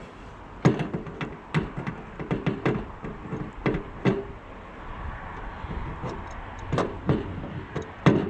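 Irregular metallic knocks and clanks on the steel of a firewood processor's conveyor while a feed flap is fitted, each with a short ring. The loudest strike is a little under a second in, with more scattered through the rest.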